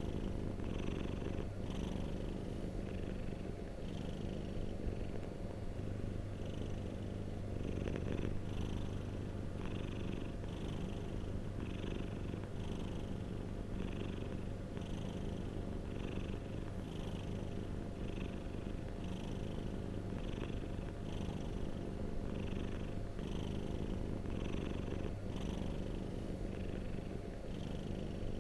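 Domestic cat purring steadily, a low continuous rumble that swells and eases about once a second with its breaths in and out.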